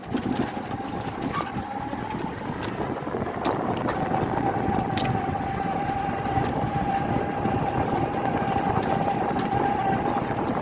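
An engine running steadily, a low rumble under a constant whine, with a few faint clicks.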